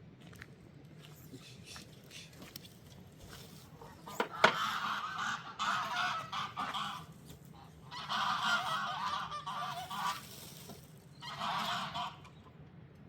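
Farm fowl calling loudly in three raspy bouts of about two, two and one seconds, after a single sharp knock about four seconds in, over a low steady hum.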